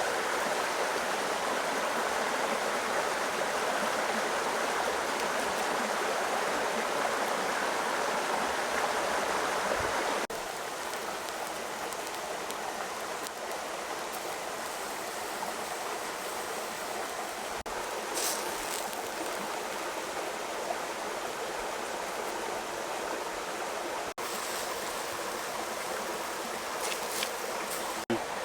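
Steady rushing water, like a flowing stream, with a few faint ticks; it drops abruptly in level about ten seconds in.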